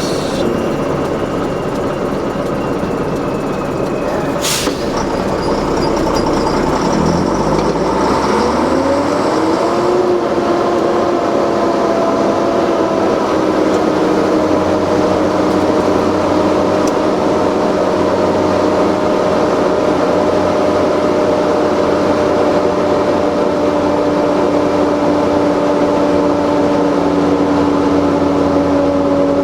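Heavy truck engine running, revving up in a quick rising sweep about a third of the way in, then holding a steady high speed. There is a sharp click a few seconds in.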